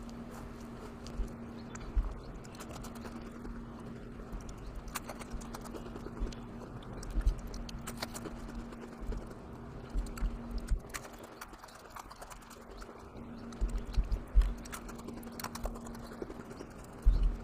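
A person chewing and crunching Oreo sandwich cookies: irregular crisp cracks and soft thumps at an uneven pace, over a steady low hum.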